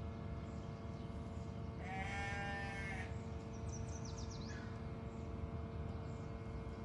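A single drawn-out animal call lasting about a second, about two seconds in, followed shortly after by a few quick high bird chirps, over a steady background hum.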